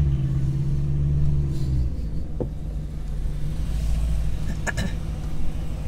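BMW E92 M3's V8 engine running with a steady low rumble at crawling speed, heard from inside the cabin; the note eases off about two seconds in.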